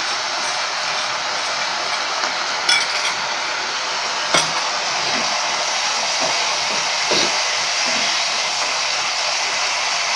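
Onions and capsicum frying in a soy and tomato sauce in a pan: a steady sizzle, with a few short clinks of a spoon against metal.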